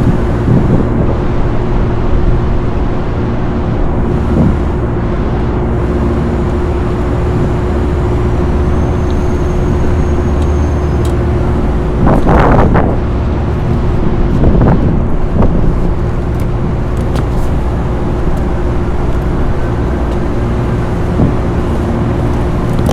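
Steady, loud mechanical drone with a constant hum, from rooftop machinery running, with wind on the microphone. Two brief rustling, scraping handling noises come about twelve and fifteen seconds in.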